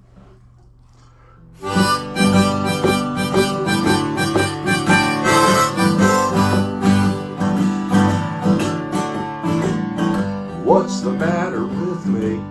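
Instrumental intro of harmonica over strummed acoustic guitar, starting suddenly about a second and a half in after a faint hum.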